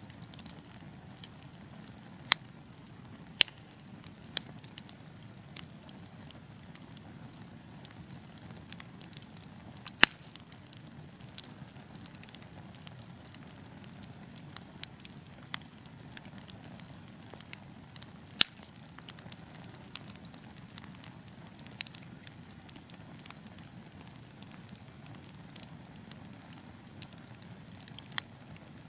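Wood fire burning in a fireplace: a steady low rumble of flames with sharp crackles and pops at irregular intervals. The loudest pops come about ten and eighteen seconds in.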